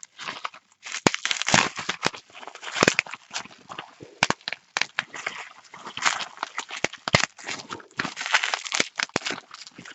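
Parcel packaging being unwrapped by hand: continuous crinkling, crackling and tearing of the wrapping, with many sharp crackles.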